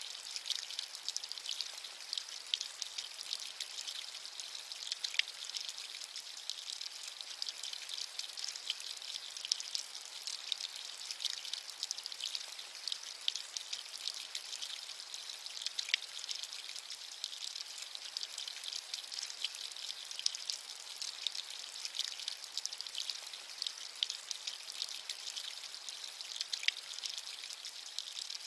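Steady rain with dense, irregular pattering of individual drops, a high, hissing sound with little low rumble.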